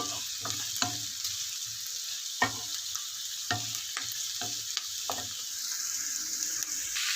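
Meat just added to garlic and onion sizzling in hot oil in a pan, stirred with a utensil that clicks and scrapes against the pan every half second or so.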